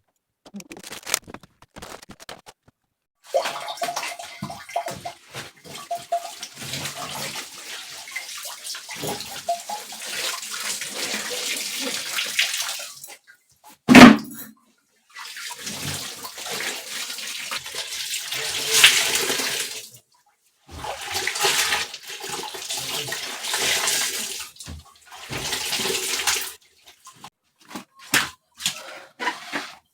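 Water running and splashing in stretches of several seconds, broken by short pauses, with one sharp knock about 14 seconds in.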